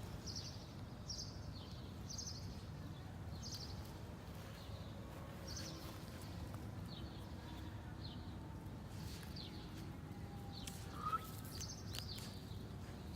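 A bird chirping over and over, a short high call about once a second, over a steady low background rumble. A brief squeak about eleven seconds in is the loudest sound.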